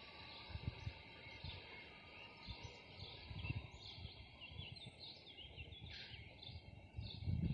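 Small birds chirping and singing in quick high notes over faint background noise, with irregular low rumbles that grow louder near the end.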